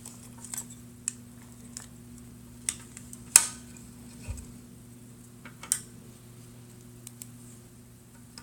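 Scattered small clicks and taps of a screwdriver and a tiny screw against the plastic shell of a trackball mouse during reassembly, the sharpest about three and a half seconds in, over a faint steady hum.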